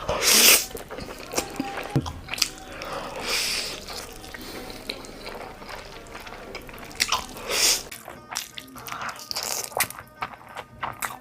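Close-miked eating: crunchy bites and chewing, with the loudest crunches about half a second in and twice around seven seconds, and quicker wet clicking chews near the end.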